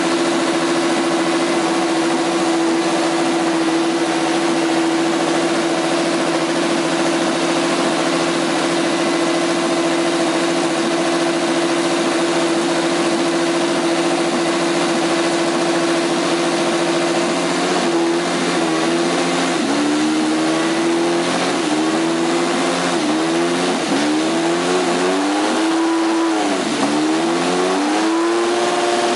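McLaren MP4/4's Honda 1.5-litre turbocharged V6 running at a steady fast idle, then blipped repeatedly in the last third, the revs rising and falling in quick succession.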